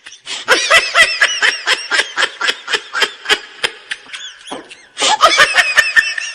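A man's voice laughing hard in a fast run of loud cackles, about four a second, breaking off briefly about two thirds of the way through, then bursting out again.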